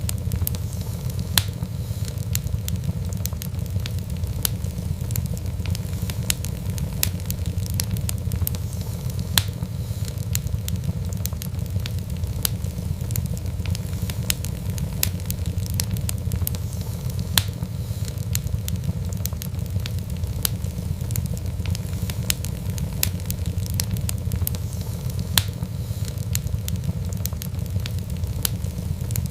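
Fireplace fire crackling, with sharp irregular pops and snaps over a steady low rumble of the flames.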